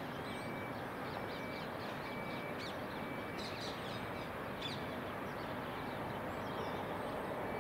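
Small birds chirping, short sharp high calls scattered throughout, over a steady background rumble of outdoor noise.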